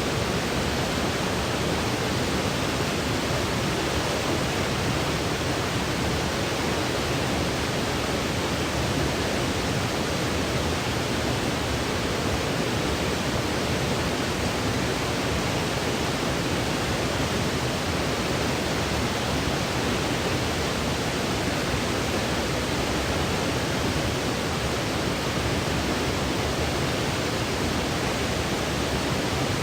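Steady synthetic noise played as a sleep aid: an even, unchanging hiss that sits somewhat heavier in the lows, like pink noise.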